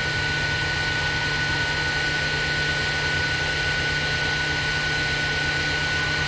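Fadal 4020HT CNC mill spindle turning a 12-inch fly-cutting head at about 821 RPM while it surfaces a cylinder head. A steady machine hum with a thin, high, steady whine over it.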